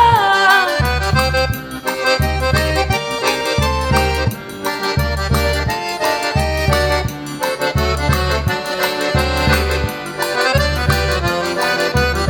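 Forró pé de serra instrumental break: an accordion playing the melody over a steady, evenly pulsing low beat.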